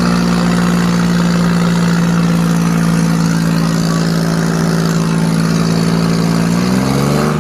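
Tractor diesel engine running steadily, its pitch rising near the end as it revs up.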